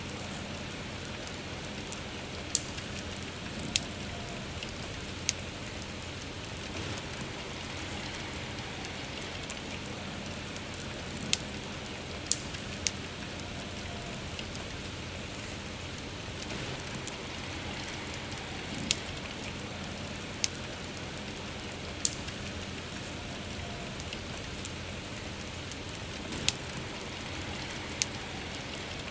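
Steady soft rain falling, with a campfire's sharp pops and crackles breaking through about a dozen times at irregular intervals.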